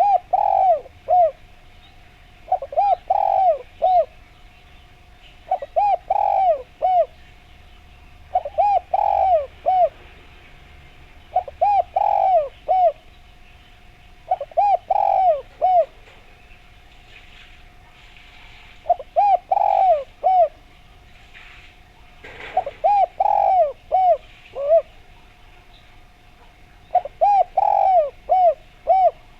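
Spotted dove (derkuku) cooing: a short phrase of about four notes, repeated about every three seconds, nine times, as a lure call. A faint steady tone runs underneath.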